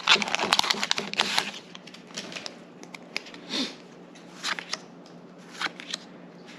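A foil trading-card booster pack wrapper crinkling for about a second and a half, then Pokémon cards being handled and flicked through one at a time: short, sparse flicks and taps.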